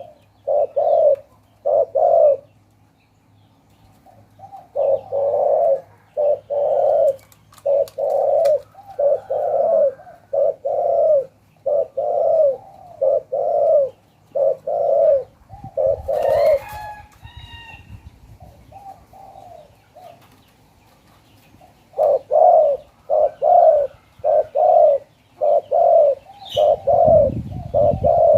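Spotted dove cooing: a run of short, low coos, about one and a half a second, in three bouts with pauses between them. Another bird chirps briefly about halfway through.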